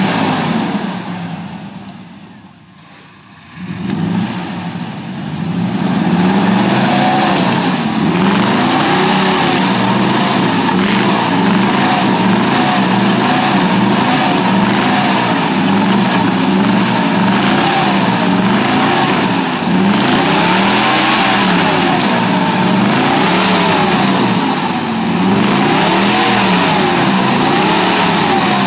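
Chevrolet pickup truck engine revved hard and held at high revs, its pitch rising and falling over and over, with a steady hiss of wheels spinning in mud while the truck stays stuck. A loud burst comes at the start, then a dip, and the continuous revving takes over about four seconds in.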